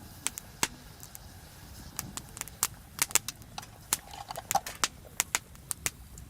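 Wood fire crackling, with irregular sharp pops coming several times a second.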